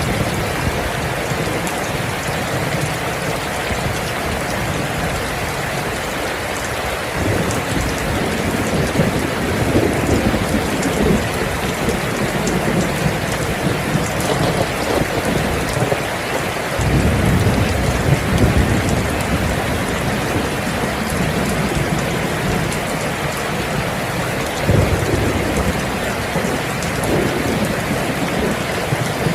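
Steady rain, with low rolls of thunder swelling up several times: a third of the way in, around the middle and near the end.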